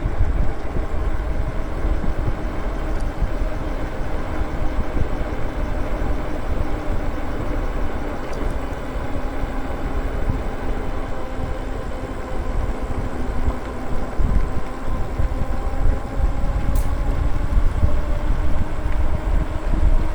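Wind buffeting the microphone and tyre rumble from an e-bike riding uphill on a road, with a faint steady hum underneath. A brief click comes near the end.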